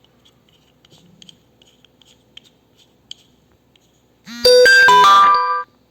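A loud electronic chime melody rings out for just over a second, about four seconds in, and cuts off: an incoming ring, someone calling.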